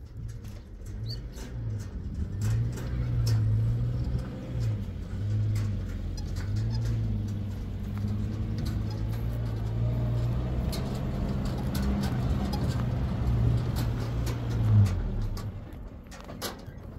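An engine running with a low hum that wavers slightly in pitch and stops about fifteen seconds in, with scattered clicks over it.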